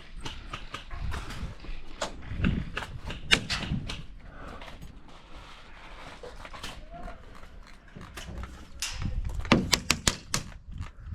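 Footsteps and gear rustle of a player moving on foot, an uneven run of low thumps and light knocks. Near the end comes a quick cluster of sharp clicks.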